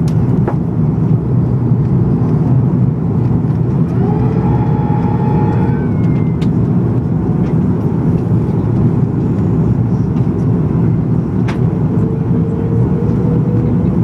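Steady cabin roar of an Airbus A330-243 in flight, its Rolls-Royce Trent 700 engines and airflow heard from inside the cabin. A faint humming tone rises briefly about four seconds in and again near the end.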